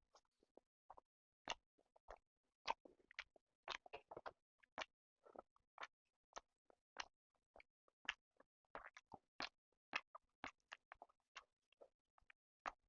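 Close-miked chewing of chicken and rice: an irregular string of short sharp mouth clicks and smacks, often several a second, with brief gaps between.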